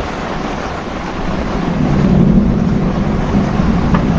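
Strong storm wind blowing hard, buffeting the microphone, with a gust swelling up about two seconds in.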